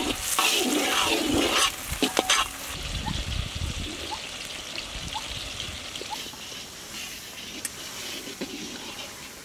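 Chopped onions, tomatoes and green chilies sizzling in a large iron kadai, with a metal spatula scraping and stirring through them in a few rough strokes over the first couple of seconds; after that a steadier, quieter sizzling hiss.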